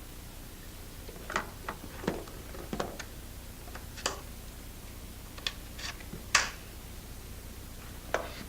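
Kayak paddle parts clicking and knocking as a four-part paddle is put together, a drip guard slid onto a shaft section and a blade snapped into place. About ten short, sharp clicks are spread over several seconds, the loudest about six seconds in.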